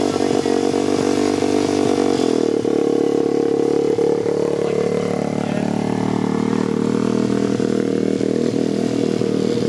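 Dirt bike engine running. Its note changes about two seconds in, and after that the revs rise and fall unevenly.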